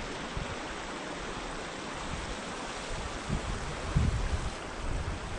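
A moorland stream rushing steadily, with wind buffeting the microphone in low gusts from about three seconds in.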